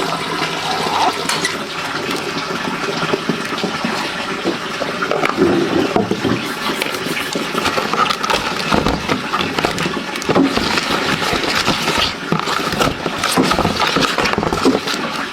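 Water splashing and churning continuously, with many small irregular splashes.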